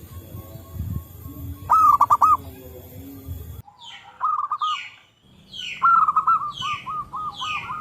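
Zebra doves (perkutut) calling: runs of quick, clipped cooing notes, loudest about two seconds in and again near the end. Higher, falling chirps from another bird overlap them in the second half, and the recording changes abruptly twice.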